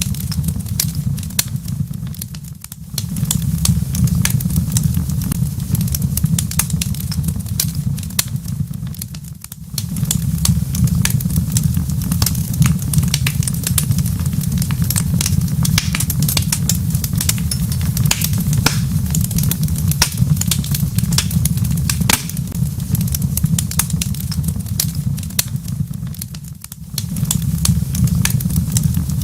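Wood fire crackling in a fireplace: a dense run of small sharp pops and snaps over a steady low rumble. The sound dips briefly three times.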